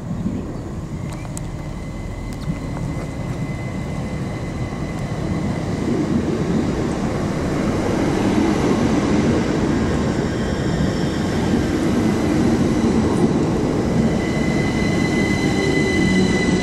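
Class 387 electric multiple unit running in alongside the platform: a rumble of wheels on rail that grows louder as the train comes close, with a thin steady whine that strengthens near the end.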